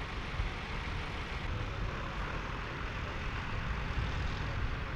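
Massey Ferguson tractor engine running steadily while ploughing, a low continuous rumble.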